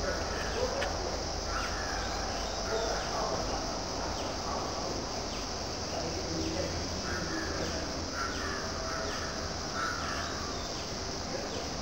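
Birds calling repeatedly in short, irregular calls over a steady high hiss.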